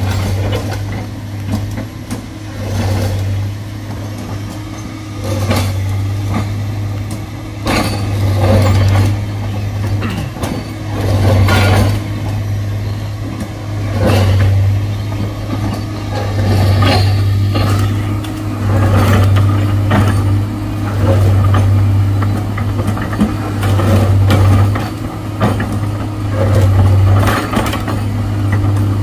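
Heavy diesel engine running and surging under load, swelling and easing every two to three seconds, with scattered knocks and clanks.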